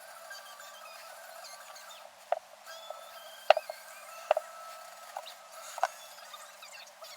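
Sharp metallic clicks and clinks from hand work on motorcycle brake parts and tools, about six separate strikes spread over a few seconds.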